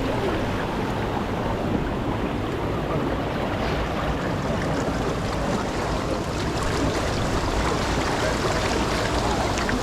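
Steady rush of river water over rapids, unbroken throughout.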